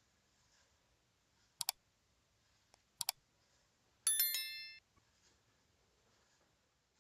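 Two sharp double clicks, then a short metallic ring with several pitches at once that dies away in under a second.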